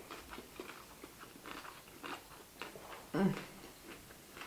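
Close-miked chewing and biting of food, with many small wet clicks and crunches from mouths. About three seconds in there is one short, louder hum-like 'mm'.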